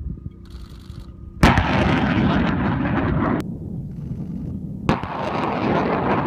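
Rockets launching from an M142 HIMARS launcher: a sharp blast about a second and a half in, followed by about two seconds of loud rocket-motor roar, then a second blast and roar near the end.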